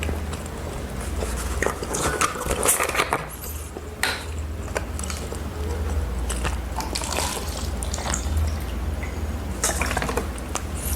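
Close-up eating sounds of a person taking noodle soup: wet sipping and slurping, with scattered clinks of utensils against a bowl.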